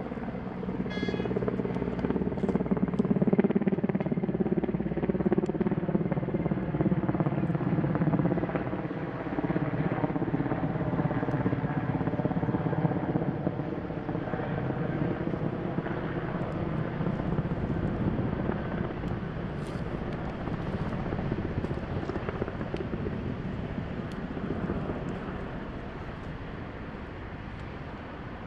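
Firefighting helicopter flying over. Its rotor and engine drone is loudest in the first half and slowly fades toward the end as it moves away.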